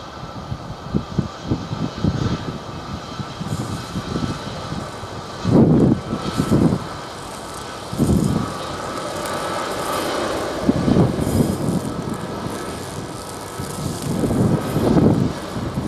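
Boeing C-17A Globemaster III's four Pratt & Whitney F117 turbofans whining steadily during the landing, under gusts of wind buffeting the microphone in loud irregular rumbles, the strongest about five and a half and eight seconds in.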